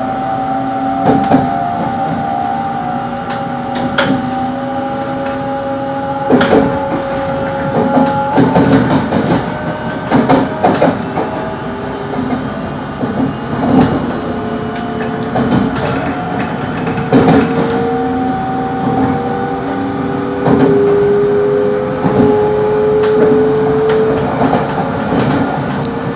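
Passenger train heard from inside the carriage as it pulls away: a motor whine in several tones that slowly rises in pitch, over a steady rumble, with the wheels knocking sharply every second or two over rail joints and points.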